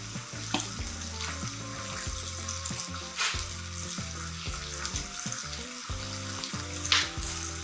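Halved peaches sizzling cut side down in a hot griddle pan, a steady hiss, with two brief clicks about three and seven seconds in. Soft background music with a low bass line runs underneath.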